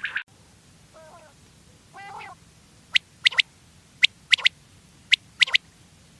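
Common quail calling: two soft, low calls, then its three-note 'wet-my-lips' call given three times. Each note is a sharp, quick whistle that falls in pitch.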